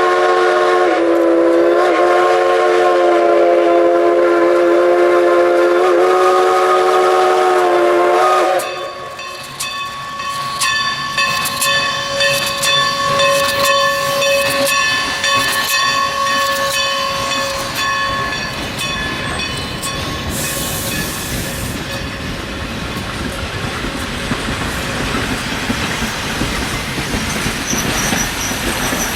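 Everett Railroad 2-6-0 No. 11's chime steam whistle sounds one long blast of about eight seconds, dipping briefly in pitch a couple of times, then cuts off. After that the train rolls past with a steady metallic wheel squeal.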